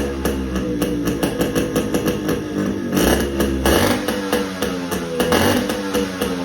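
Yamaha RX-G's single-cylinder two-stroke engine running through its stock silencer, with a louder rev about three seconds in, under background music with a steady beat.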